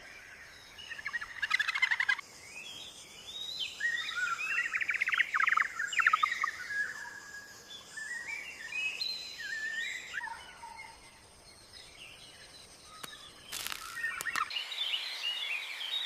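Birds calling in a run of quick, warbling chirps over a faint steady high-pitched hum, with one sharp crackle near the end.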